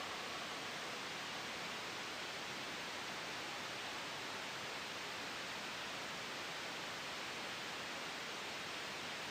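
Steady, even white noise blended with a soft wind hiss, unchanging throughout.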